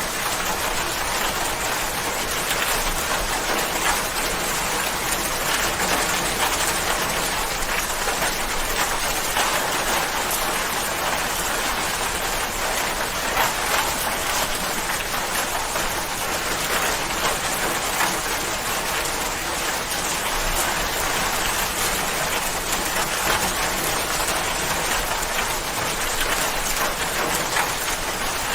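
Steady rain falling on a surface, a dense even patter of countless drops.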